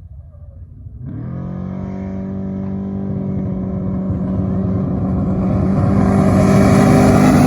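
A desert off-road race vehicle's engine (trophy truck or Class 1) revs up about a second in, then holds steady revs and grows steadily louder as it comes closer.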